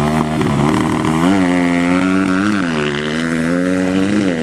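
Motocross motorcycle engine running, its pitch rising and falling a few times as the throttle is opened and closed, with a rise about a second in, another near the middle and one near the end.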